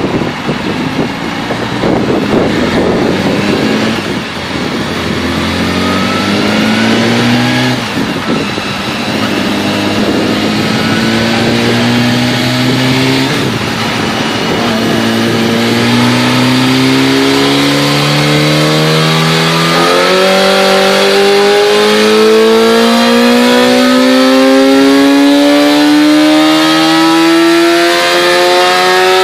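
BMW S1000RR HP4's inline-four engine in a dyno pull, revving up through the gears: the pitch climbs, drops back at about four upshifts, then rises steadily and gets louder in a high gear.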